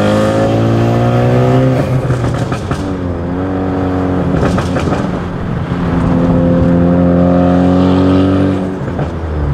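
Ford Focus ST's big-turbo 2.0-litre four-cylinder engine pulling hard under throttle, heard from inside the cabin. Its note climbs steadily with the revs and is broken by gearshifts about two seconds in, again around the middle, and near the end.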